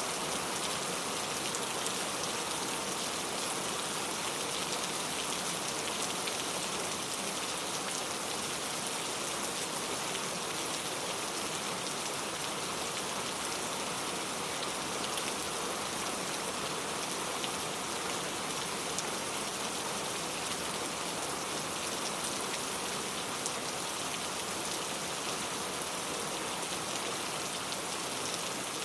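Steady rain falling, with many small drops pattering on surfaces in a dense, even hiss.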